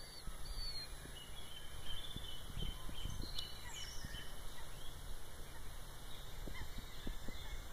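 Small birds chirping and singing in short, scattered calls over a steady low rumble.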